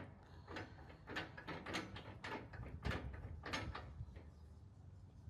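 Faint, irregular metal clicks and knocks as the bottom chamber door of an XT500LE vertical cardboard baler is unlatched and opened.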